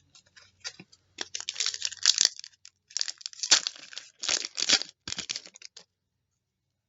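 A trading-card pack's wrapper being torn open and crinkled, in a run of short rustling and tearing bursts that stop about six seconds in.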